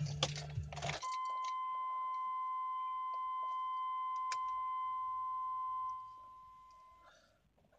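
Radio music cuts off about a second in, and a steady electronic beep sounds for about six seconds, with one sharp click partway through; the beep fades out near the end. The radio dropping out fits the truck's intermittent electrical fault.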